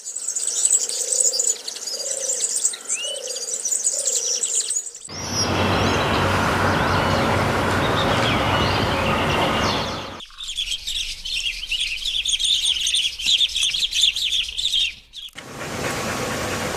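Birds chirping and twittering in several short segments that change abruptly about every five seconds. In two of the segments a steady loud rushing noise covers the chirps.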